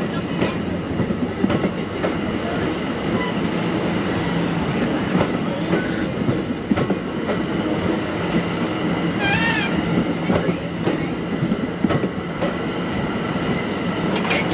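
MARC commuter train rolling along the track, with a steady rumble and irregular clicks of the wheels over rail joints. There is a brief wavering high squeal about two-thirds of the way through.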